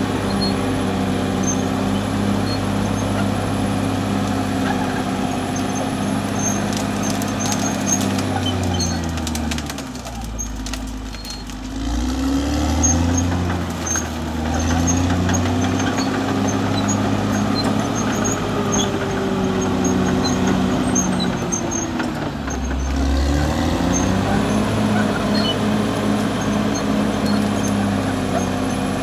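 Caterpillar D6R XL bulldozer's diesel engine running hard. Its pitch drops twice, about ten seconds in and again past twenty seconds, each time pulling down and climbing back.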